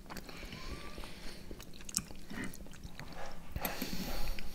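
Close-miked mouth sounds of people chewing soft boiled vareniki (dumplings) dipped in yogurt, with a few light clicks of metal forks against the plate and bowls.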